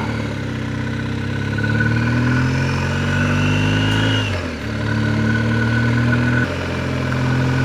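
BMW R1250GS boxer-twin engine pulling under way, its revs climbing for a few seconds, then falling abruptly about four and a half seconds in as it shifts up a gear and pulls on.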